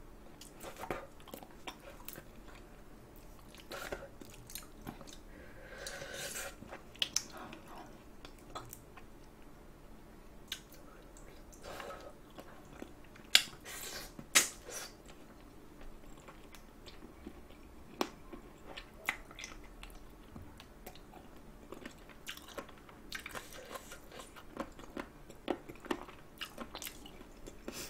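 Close-up chewing and gnawing on spicy sauced chicken feet, with scattered sharp clicks as the meat is bitten off the small bones; the two loudest clicks come about halfway through.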